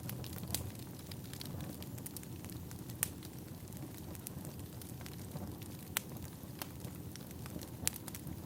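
Wood fire burning with a steady low rumble and scattered crackles, including a few sharp pops.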